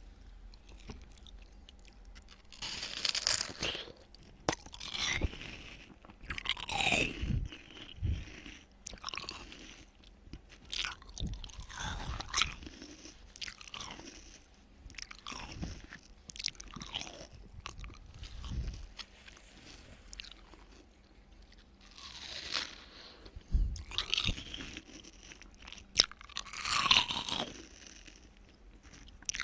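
Close-miked ASMR chewing and crunching of watermelon, wet mouth sounds in irregular bursts with sharp clicks every second or two.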